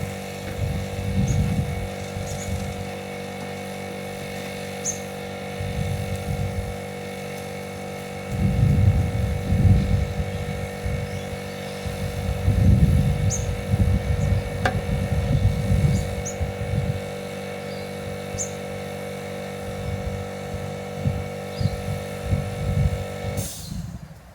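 An engine running steadily at one speed, with low rumbling surges, while birds chirp now and then; the engine sound cuts off suddenly near the end.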